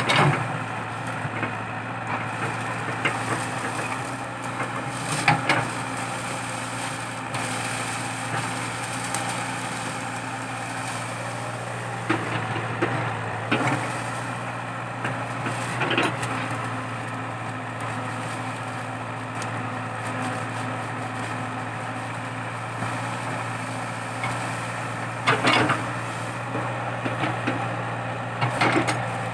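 Komatsu PC80 hydraulic excavator's diesel engine running steadily under digging load. Several sharp cracks and knocks come from eucalyptus stumps and roots being broken out, the loudest near the start, about five seconds in and twice near the end.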